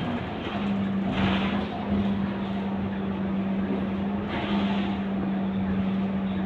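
Scania K230UB city bus under way, its diesel engine holding one steady pitch over constant road and tyre noise.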